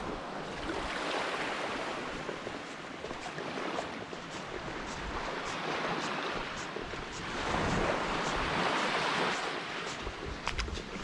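Lake Superior waves washing against the rocky shore, the surf swelling and easing in slow surges, with wind buffeting the microphone. A few sharp clicks near the end.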